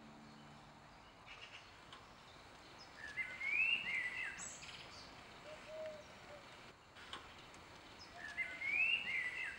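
A songbird singing a short warbling phrase that rises and falls and ends in a high twitter, heard twice about five seconds apart over faint outdoor background noise.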